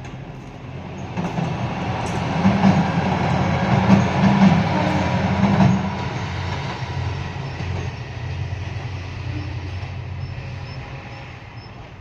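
Shimabara Railway diesel railcar passing by: its engine and wheel noise build up, peak with wheels clattering over the rail joints between about three and six seconds in, then fade away.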